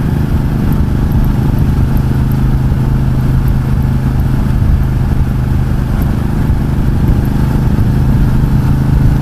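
Ducati Multistrada 1200 S's V-twin engine running steadily while the bike is ridden in traffic, with road and wind noise.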